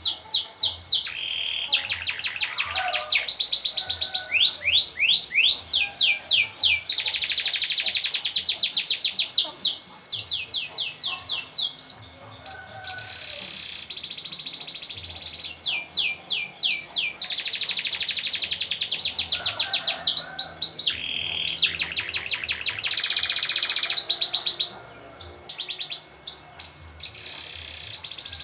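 Domestic canary singing a long song made of rapid rolling trills, one run of fast repeated notes after another, with the note type changing every second or two.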